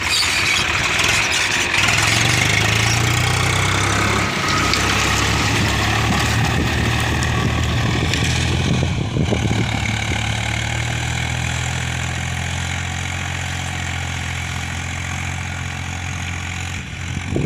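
Swaraj 733 FE tractor's three-cylinder diesel engine running steadily at idle.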